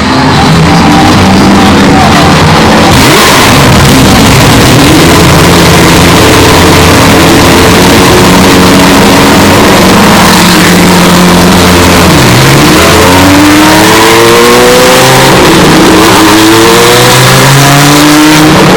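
Historic Group C prototype race cars at full throttle, their engines howling past, very loud and distorted. Near the end an engine climbs in pitch several times in a row as it upshifts through the gears.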